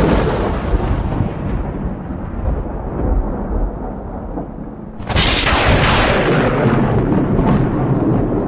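Rain-with-thunder sound effect: a rolling thunderclap dying away over several seconds above a steady rain hiss, then a second sudden crack of thunder about five seconds in that rumbles on.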